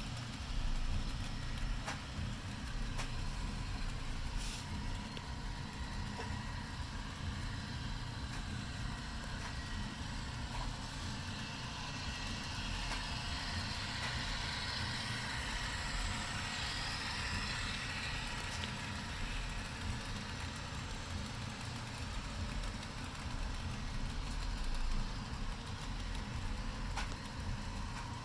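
HO-scale model diesel locomotives (a Rapido E8 and an Atlas Gold Series GP40) running, their sound decoders playing a steady diesel engine rumble. A hiss swells in the middle and fades again, with a few faint clicks.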